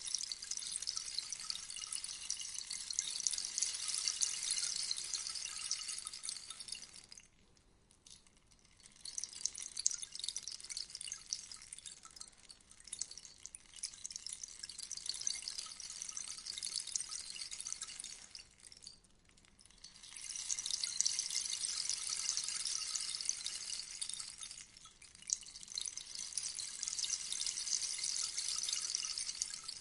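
Rainstick: a dense, high pattering of its fill trickling down inside the tube like rain, falling away into two short lulls about seven and eighteen seconds in as the stick is turned over, with a brief dip near the end.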